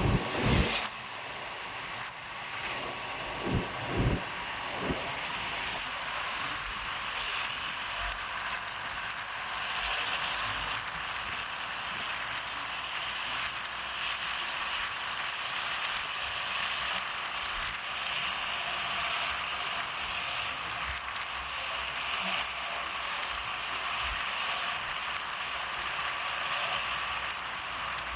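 Steady rushing hiss of a vehicle travelling on a road in the rain, with a few short low thumps in the first five seconds.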